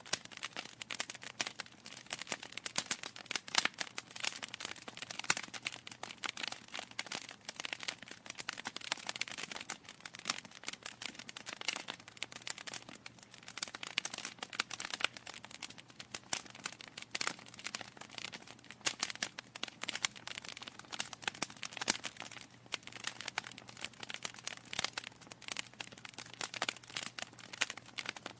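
Burning logs in a fireplace crackling: a dense, continuous run of small snaps and pops, with now and then a louder pop.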